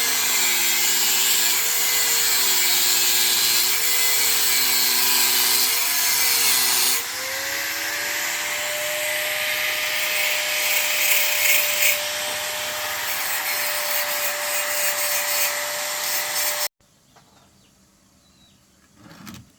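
Handheld electric power tool running with a loud rushing hiss over a wavering motor whine; about seven seconds in the sound shifts to a steadier, higher whine, and the tool is switched off abruptly near the end.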